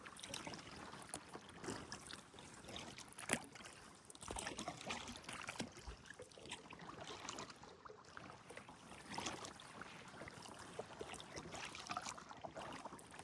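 Kayak paddle strokes in calm water: faint dipping, splashing and dripping, with light knocks and one sharper click about three seconds in.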